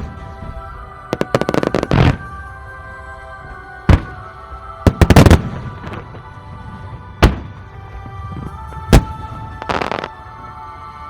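Fireworks going off: sharp single bangs every few seconds, with quick rattling volleys of crackling shots in between, over background music.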